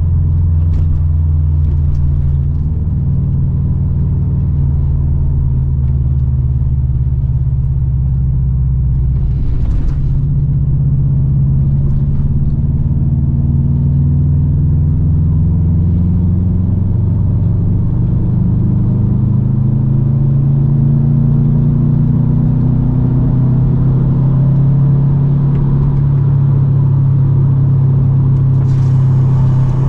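2008 Subaru WRX STI's turbocharged 2.5-litre flat-four, breathing through an Invidia catted downpipe and N1 exhaust, running under way with a deep steady drone. About ten seconds in, the note shifts. It then climbs slowly for several seconds as the car picks up speed, and holds steady.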